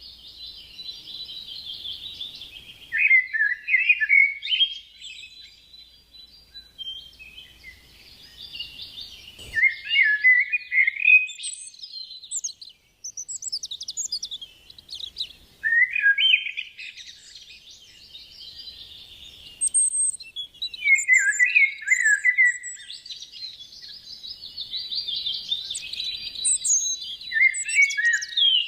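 Canary singing: long runs of rapid trills and warbles in about five phrases, each a few seconds long with short pauses between them.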